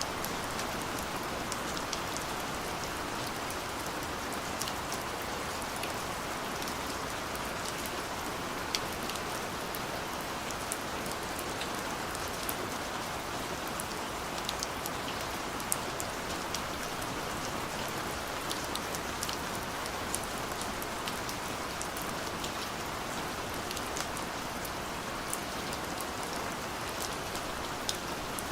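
Steady rain with many individual drops pattering and ticking on a surface.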